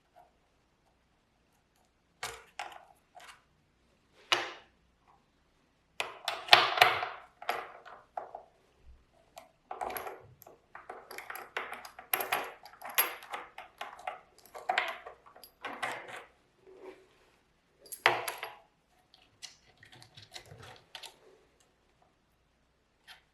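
Irregular clinks, taps and clatter of small hard objects being handled and set down, starting about two seconds in, busiest in the middle and thinning out near the end.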